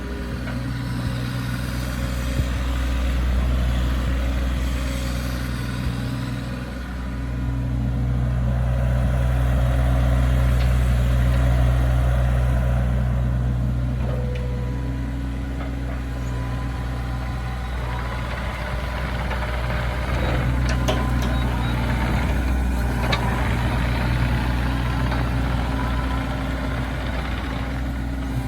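Bobcat E26 mini excavator's diesel engine running steadily, getting louder twice, for a few seconds in and for several seconds in the middle, with several sharp knocks in the second half.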